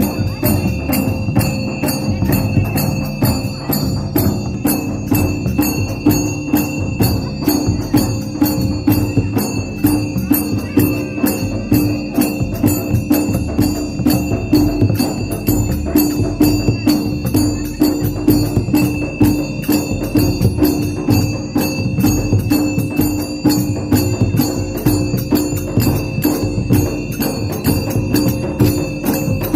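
Tribal folk music with a dhol drum beaten in a steady rhythm, with jingling bells or tambourine and a sustained held tone.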